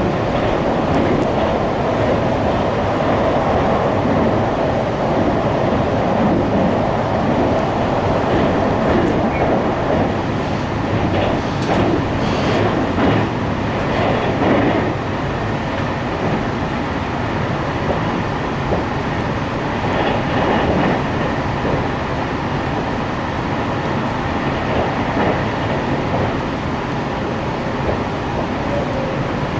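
JR Hokkaido 737 series electric train running on the line, heard from on board: steady wheel and rail noise with some clickety-clack over the joints. A humming tone in the first half fades out about halfway through, and the sound eases a little after that.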